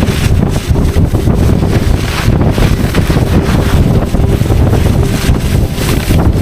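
Wind buffeting the microphone at speed, a heavy low rumble, with the hiss of 99 cm skiboards' edges cutting through snow swelling and fading every second or so.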